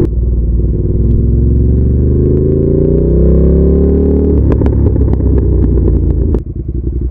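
Ducati Monster 1200S's L-twin engine under way, pitch rising steadily for about four seconds as it accelerates, then going rougher with a few sharp clicks and dropping in loudness about six seconds in.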